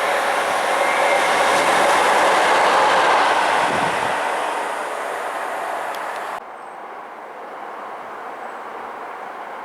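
A train passing at speed on a main line, its noise building to a peak about three seconds in and then fading. The sound cuts off abruptly about six seconds in, leaving a quieter steady rumble.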